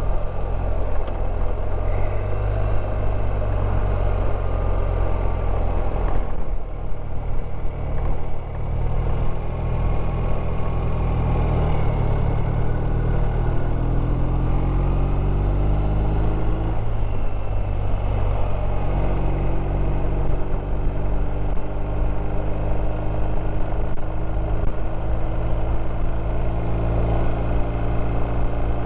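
BMW R1250 RT's boxer-twin engine running as the motorcycle climbs a mountain road, with steady road and wind noise. About halfway through, the engine note rises and changes, then holds steady.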